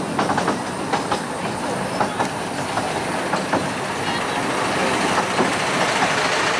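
Narrow-gauge train of the 15-inch-gauge Ravenglass & Eskdale Railway running along the line: a steady rumble with irregular sharp clicks of the wheels over the rail joints, most of them in the first half.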